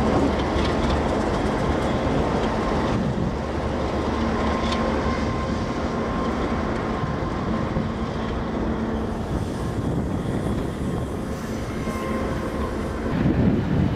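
Freight train led by Alco diesel locomotives moving slowly along the track: a steady engine and rail rumble, with a few wheel clicks over rail joints in the first seconds. It eases off slightly as the locomotives draw away.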